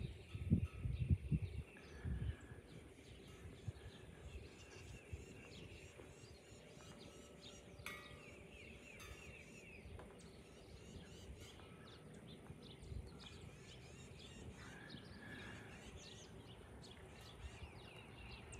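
Faint outdoor ambience with birds chirping now and then in short trilled calls, and low thumps on the microphone during the first two seconds.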